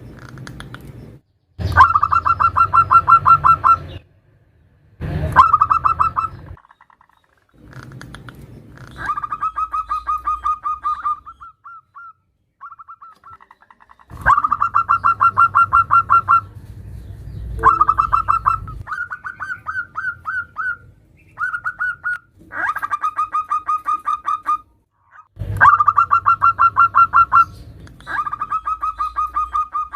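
Zebra dove (perkutut) calling in repeated bouts of fast, rapidly pulsed cooing notes, each bout one to three seconds long with short pauses between them. This is a female's call to attract males.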